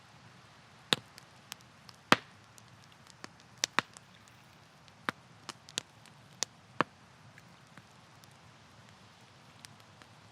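Campfire crackling: irregular sharp pops of burning wood, the loudest about two seconds in, thinning out after about seven seconds, over a faint steady hiss.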